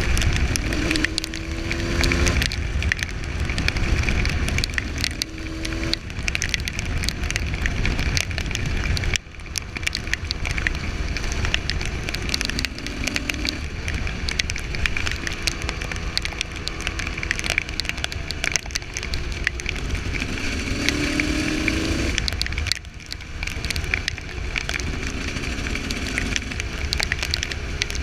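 Husqvarna SM125 125cc supermoto engine being ridden, its note rising in pitch again and again as it pulls through the revs, with sudden drops about a third of the way in and again near the end. A steady rushing hiss of wind runs under it.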